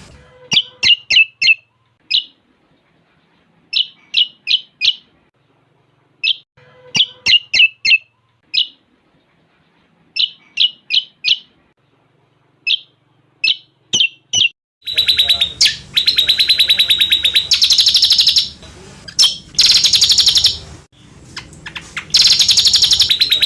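Lesser green leafbird (cucak combok) song carrying cililin-style phrases. For about the first fifteen seconds it gives quick groups of three to five sharp chirps with short pauses between. It then breaks into a loud, fast, continuous rattling trill that stops briefly a couple of times.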